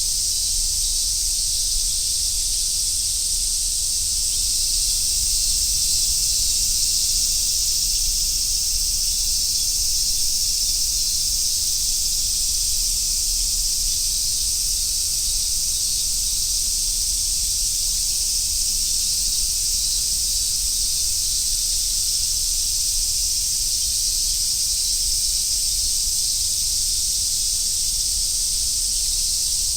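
A dense chorus of summer cicadas, large brown cicadas and robust cicadas among them, buzzing as one steady, high sizzle, with a faint low rumble underneath.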